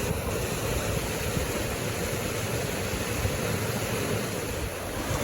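Waterfall and mountain stream rushing steadily.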